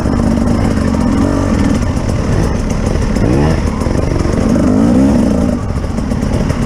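Off-road vehicle engine running under load, revving up and down several times over a steady rumble, as in rough-terrain driving. The pitch climbs sharply about three seconds in and again near five seconds.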